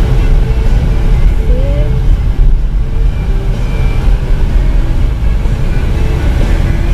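Car driving: a steady, loud low rumble of road and wind noise, with a few faint short tones above it.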